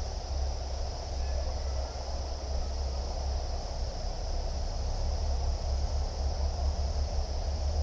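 Insect chorus, a continuous high-pitched drone, over a steady low rumble.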